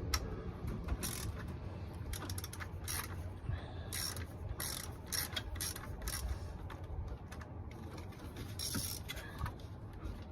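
Hand socket ratchet clicking in short, irregular runs as a bolt is worked, with a few louder bursts of clicks partway through.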